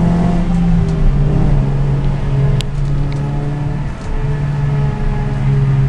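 Suzuki Swift Stage 2's engine heard from inside the cabin, running hard under load at a steady pitch. The engine note dips briefly about four seconds in, then picks up again.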